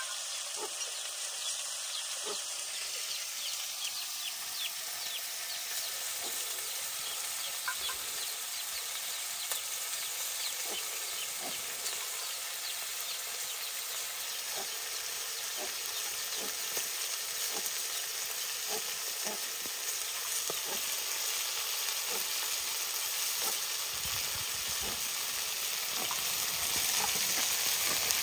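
Chicken pieces sizzling as they fry in an iron wok over a wood fire, with scattered small clicks and taps as they are stirred. The sizzle grows a little louder toward the end.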